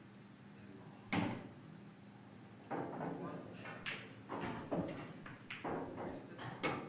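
Pool balls striking in one hard shot about a second in, the loudest sound, followed by a run of softer, irregular knocks and clatter.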